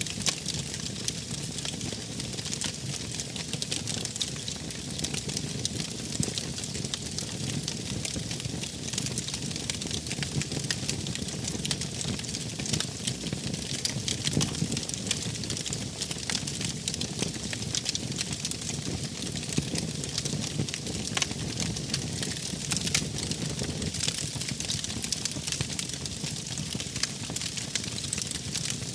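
Wood fire crackling steadily, with many small sharp pops over a soft low rumble.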